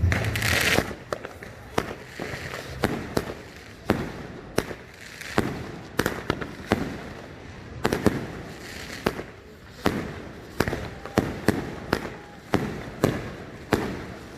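Fireworks going off in a continuous series of sharp bangs, about one to two a second, with a louder crackling burst at the start.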